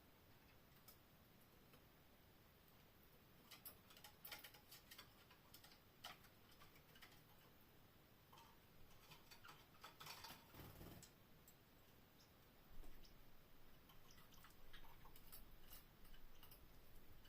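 Near silence with faint, scattered small clicks and ticks, and a brief soft rustle about ten seconds in.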